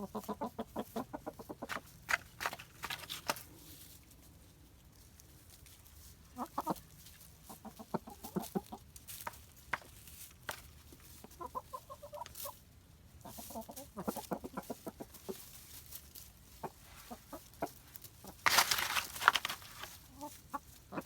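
Chickens clucking in several runs of short, quick calls, with scattered sharp clicks between them. A louder burst of noise comes near the end.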